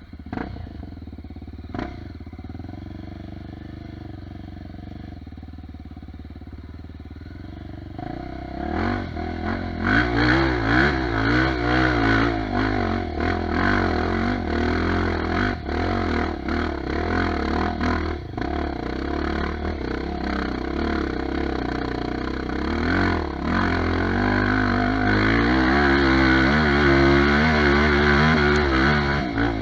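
Dirt bike engine running fairly steadily, then getting louder about eight seconds in as it is revved and ridden, its pitch rising and falling with the throttle.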